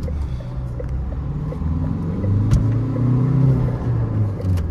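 Changan Hunter pickup's engine running as the truck is driven, its low hum growing louder about two seconds in and easing again later. Two sharp clicks, one about two and a half seconds in and one near the end.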